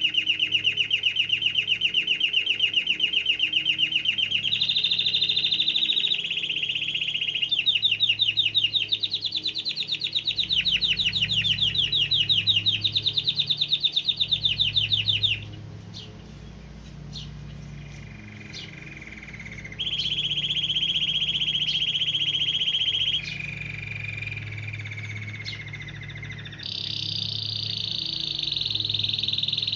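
Canary singing a long song of fast rolling trills, each held for a second or two before switching to another pitch or pattern; loud for the first half, then softer, steadier phrases from about halfway through.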